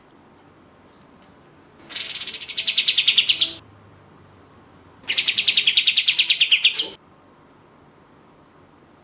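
Kapas tembak (katem) bird singing two fast rattling trills, each lasting under two seconds. Each trill starts high and drops in pitch partway through.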